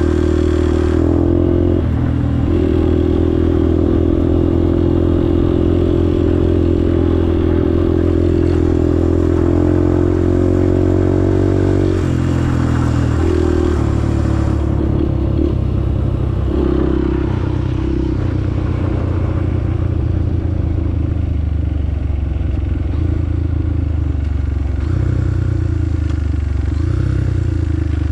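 Motorcycle engine running steadily close up, its note shifting a few times, with the ticking noise its owner can't trace.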